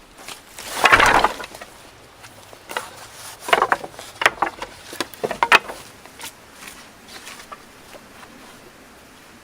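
Dry sticks and branches snapping and knocking together. There is a loud rough crack about a second in, then a run of sharp snaps around the middle, tailing off into scattered light clicks.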